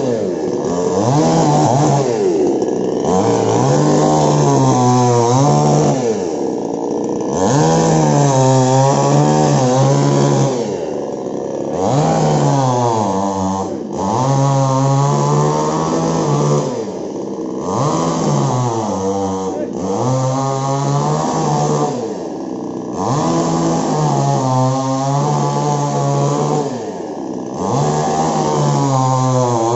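Two-stroke petrol chainsaw engine being revved over and over, its pitch climbing to high revs and falling back toward idle every few seconds.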